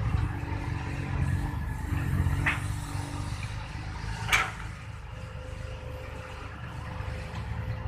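Diesel engine of a loaded six-wheel dump truck pulling up out of a pit, easing off a little after about three and a half seconds. Two sharp clanks cut through it, the second and louder one about four seconds in.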